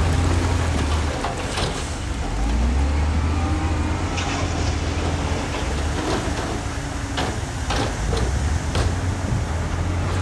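Diesel engine of heavy earthmoving machinery running steadily with a deep rumble, with scattered sharp metallic knocks over it.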